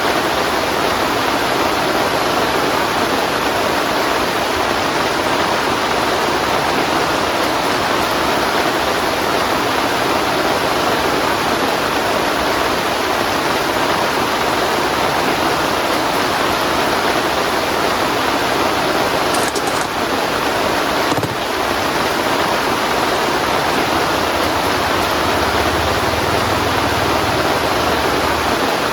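Heavy rain falling steadily, a dense even hiss of rain, with one short knock about twenty-one seconds in.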